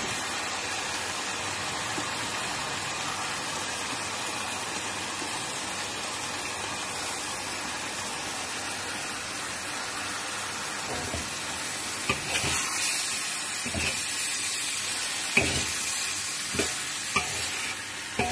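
Basmati rice, diced chicken and carrot frying in a hot wok with a steady sizzle. From about eleven seconds in, a metal spatula knocks and scrapes against the wok a handful of times as the rice is stirred in.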